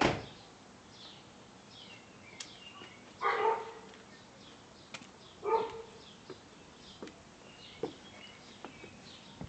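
A dog barks twice, about three and five and a half seconds in, with small birds chirping repeatedly and a few light clicks. A sharp click comes right at the start.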